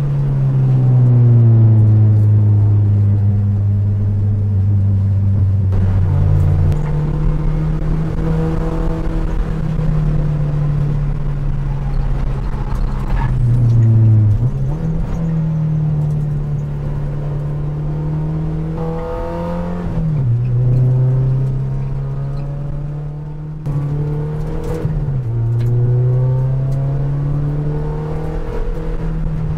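Track car's engine heard from inside the cabin while lapping at speed, running loud and steady. Its pitch drops sharply and climbs again with gear changes, about halfway through and twice more after that.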